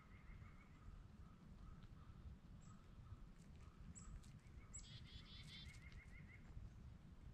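Near silence outdoors, with faint, distant songbird calls: a soft repeated trill throughout, a few high chips, and a brighter rapid trill about five seconds in.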